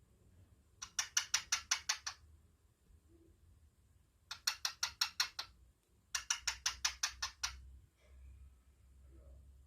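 Pet cockatiel making quick runs of sharp clicking taps: three bursts of seven to nine clicks each, about six a second.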